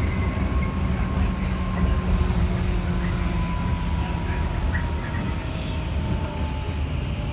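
Running noise of a JR 211-series electric train heard inside the carriage: a steady rumble from the wheels and running gear, with a faint whine that falls slowly in pitch.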